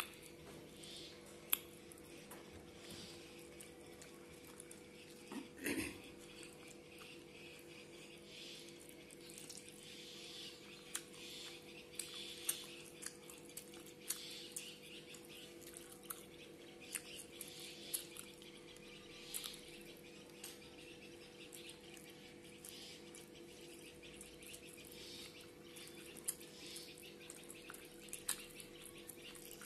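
Close-up eating sounds: many small wet clicks and lip-smacking as fish curry and rice are chewed and picked apart by hand, with a somewhat louder smack about six seconds in. A steady low hum runs underneath.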